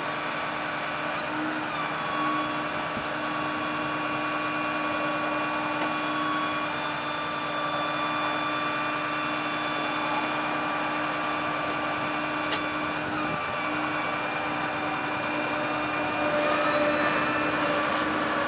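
Altec AT37G bucket truck's hydraulic system running off the truck's power take-off as the bucket platform is rotated: a steady whine with several tones over the running engine. It stops briefly twice, about a second in and about thirteen seconds in, and gets a little louder near the end.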